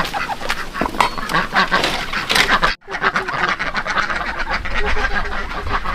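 A flock of ducks quacking in a rapid, continuous clamour, with a brief break just before halfway.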